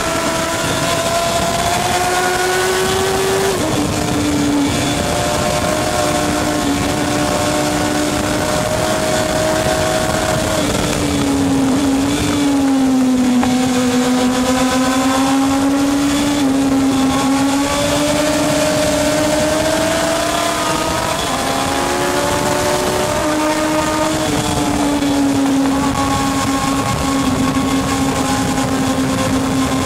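Racing motorcycle engines at high revs, their note climbing and falling again and again as they accelerate, shift and brake, with more than one engine heard at once.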